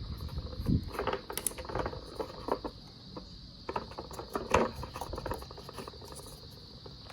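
Scattered small clicks and taps of handling the oil filter housing cap while a new o-ring is fitted into its groove, the loudest about four and a half seconds in. A steady high chirring of crickets runs underneath.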